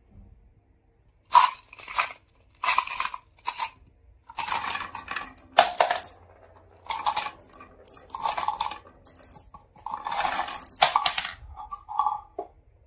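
Marbles clattering and rolling down a HABA wooden marble run in a string of short rattling runs. The runs start about a second in and end just before the end.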